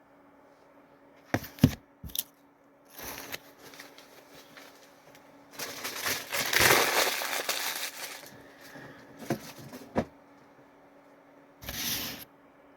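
Crackling and crinkling handling noise with a few sharp clicks; the loudest stretch is a crinkle of about two seconds, some six seconds in.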